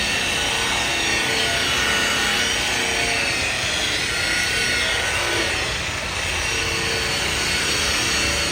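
Electric paint polisher running steadily, its pad rubbing compound into oxidized truck paint, with the motor's pitch wavering as pressure on it changes.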